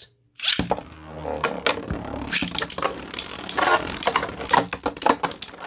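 3D-printed Beyblade spinning tops launched into a stadium about half a second in, then spinning and rattling, with many sharp clicks as they collide with each other and the stadium wall, until the sound stops near the end.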